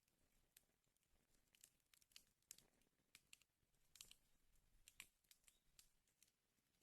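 Wood fire crackling faintly, with irregular sharp snaps and pops. A few louder pops come about two and a half, four and five seconds in.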